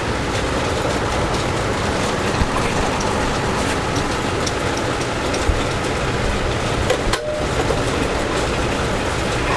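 A power tool running steadily with a rough, rattling cutting noise as it carves into wood, dipping briefly about seven seconds in.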